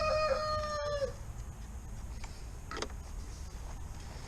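Rooster crowing, its long drawn-out final note ending about a second in. A single short click follows a couple of seconds later.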